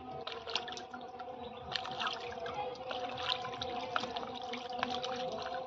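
Water splashing and dripping in quick irregular spatters over a steady hum.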